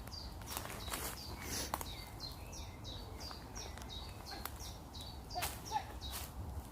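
A small bird singing a run of short, high, downward-sliding notes, about three a second, that stops shortly before the end. Scattered crunching steps sound over it, with a louder crack near the end.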